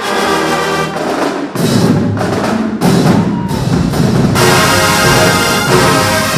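Marching band brass and percussion playing. Low brass and drums come in about a second and a half in, and the full band with high horns joins about four seconds in.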